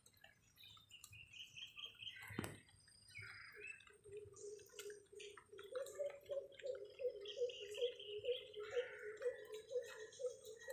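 Morning outdoor ambience with birds chirping in short repeated notes, one sharp click early on, and from about a third of the way in a low rhythmic pulsing at roughly three beats a second that grows louder.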